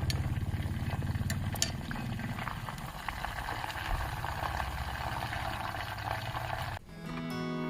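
Chicken deep-frying in oil: a steady sizzling hiss with fine crackles. A low rhythmic throbbing fades out during the first couple of seconds. The sizzle cuts off suddenly near the end, and acoustic guitar music starts.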